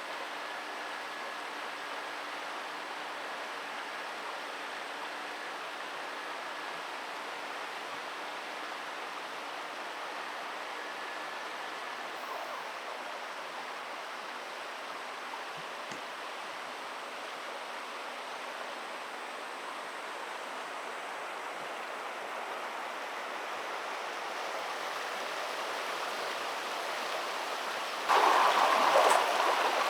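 Steady rush of flowing river water. It grows slowly louder and turns into a louder rush in the last two seconds.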